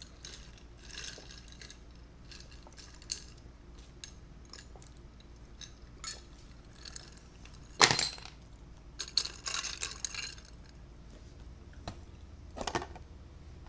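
Cutlery clinking and clattering against dishes during a meal, a few scattered clicks with one sharp, loud clack about eight seconds in and busier clatter just after it.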